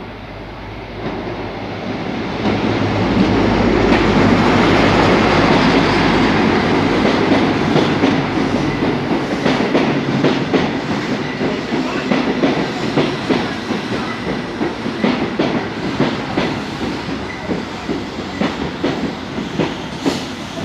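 A train passing close on the rails. The rumble builds to its loudest a few seconds in, then gives way to a quick run of wheel clicks over rail joints as the coaches go by.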